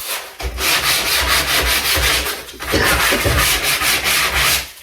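Handsaw cutting through a length of timber with quick back-and-forth strokes, in two runs with a short pause in the middle.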